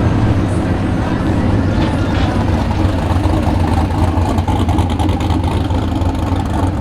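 Vehicle engine idling steadily with an even, low rumble.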